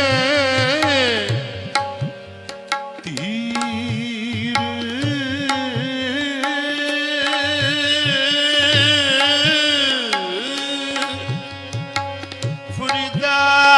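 Sikh Gurbani kirtan: a male ragi holds long, wavering melismatic notes without words, gliding down in pitch twice, over a harmonium and a steady tabla rhythm.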